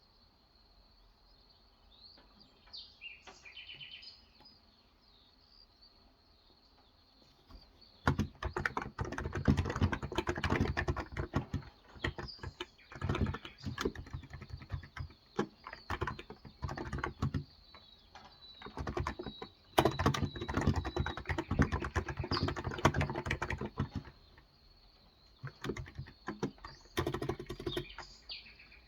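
Typing on a Cox Endeavor 35 g electrocapacitive (non-contact) tenkeyless keyboard. Fast runs of keystrokes start about eight seconds in and are broken by short pauses. Before the typing, a bird chirps faintly a few times.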